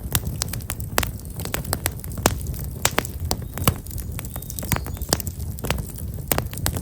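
Campfire of black locust firewood burning: irregular sharp crackles and pops, several a second, over a steady low rumble of the flames.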